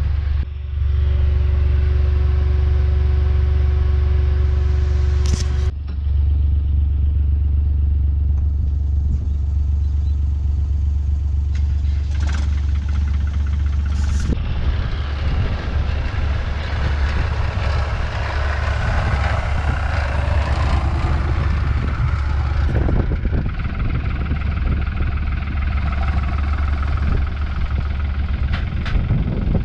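A heavy vehicle engine running steadily with a deep, even drone, broken by a few sharp clicks and two short dips in level in the first six seconds.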